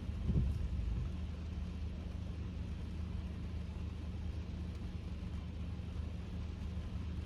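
Steady low road and engine rumble of a Kia K5 (DL3) sedan on the move, heard from inside the cabin, with a brief bump about a third of a second in.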